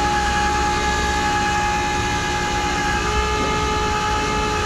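Tow truck running with its hydraulics engaged as a car is pulled up the ramps: a steady drone with several held whining tones, one of them shifting slightly in pitch about three seconds in.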